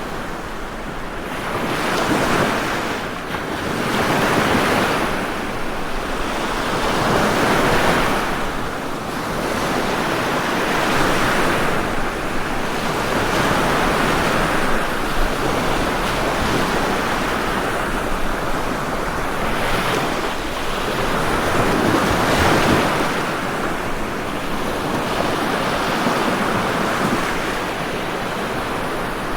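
Ocean waves breaking and washing ashore in overlapping swells, each surge of surf rising and falling every few seconds.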